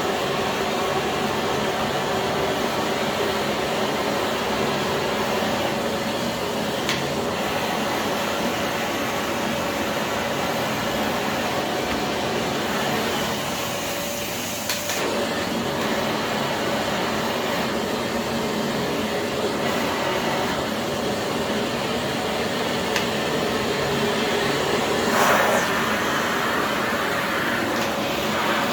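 Philips PowerPro FC9331/09 900 W bagless vacuum cleaner running steadily, a constant motor hum over the rush of air. The sound briefly drops and changes about halfway through, and swells louder for a moment near the end.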